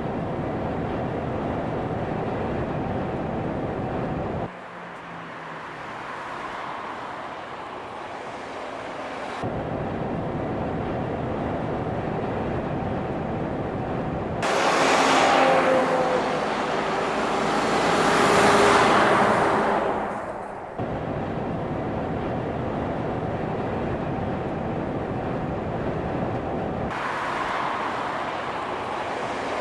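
Heavy truck driving on a road, with steady engine and tyre noise. The sound changes abruptly every few seconds, as in a run of edited shots. A louder passage in the middle swells and then fades as a vehicle passes close by.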